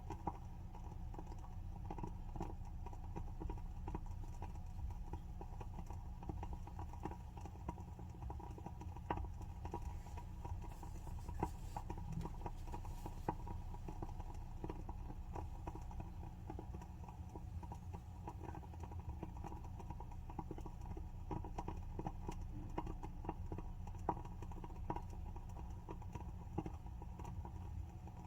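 WoodWick candle's wooden wick crackling as it burns: small irregular pops and ticks, a few a second, over a steady low hum.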